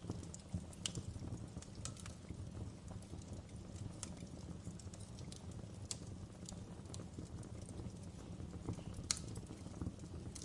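Wood fire crackling: irregular sharp pops and snaps, the loudest about nine seconds in, over a steady low rumble of the flames.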